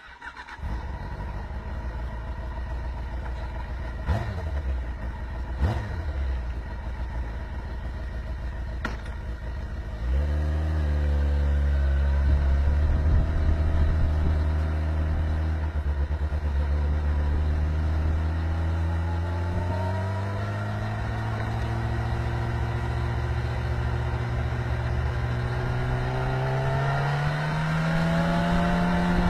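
A vehicle engine running, with three sharp knocks in the first ten seconds. From about ten seconds in, a louder, steady engine note climbs slowly in pitch and steps up once near the end.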